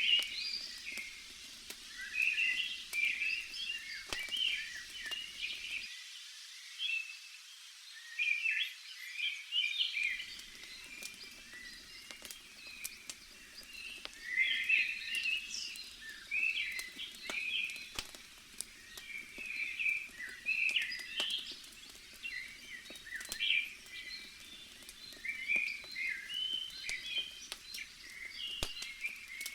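A campfire crackling, with scattered sharp pops, under a forest ambience of wildlife chirping in short clusters every second or two.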